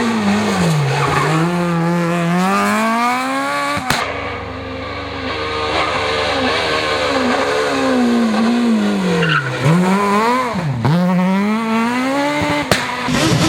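Rally car engines revved hard on a stage, the pitch climbing through each gear and dropping sharply at the shifts and lifts. Several shots of different passes follow one after another.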